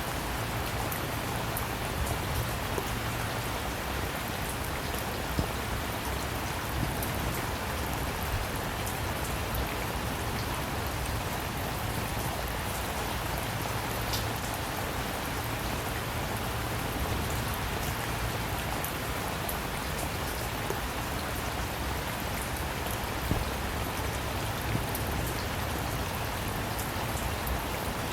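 Steady rain falling as an even hiss, dotted with sharper taps of single drops.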